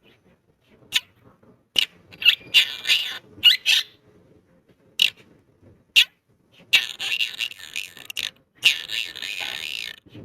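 Quaker parrot (monk parakeet) calling: a string of short, sharp squawks, then two longer runs of rapid chatter in the second half.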